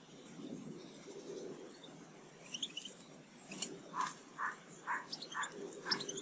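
Garden birds calling: scattered short high chirps, then from about four seconds in a steady series of louder repeated call notes, about two a second.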